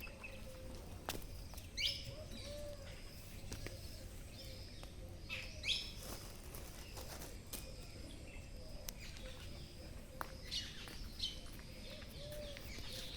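Birds chirping, short high calls coming every second or two over faint outdoor background noise.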